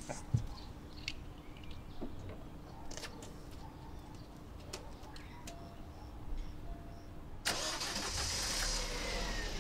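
A few light clicks and jangles, then a car engine starting about three-quarters of the way through and running on, much louder than the clicks.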